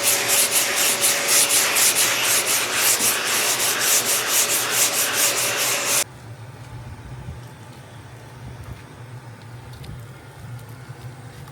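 80-grit sanding on a car's front fender, a scratchy rasp in quick, even strokes with a faint steady whine under it. It stops abruptly about six seconds in, leaving only a low hum.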